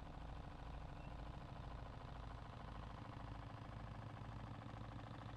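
Reeves Unicorn model horizontal steam engine running on compressed air, with a steady, fast, even beat.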